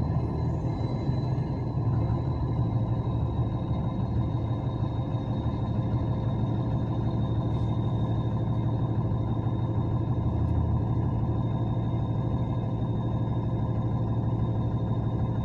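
Steady low hum of a vehicle's engine running, heard from inside the vehicle, with a faint constant high-pitched whine over it.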